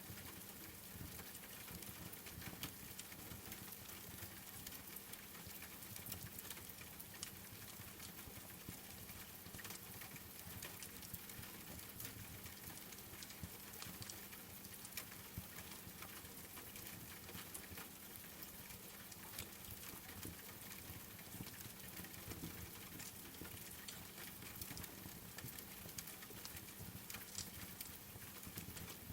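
Rain falling steadily together with a wood fire crackling: an even hiss dotted with frequent small, sharp pops.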